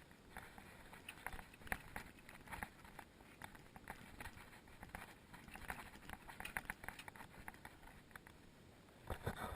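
Faint, irregular clicks and scuffs, a few a second, with no engine running.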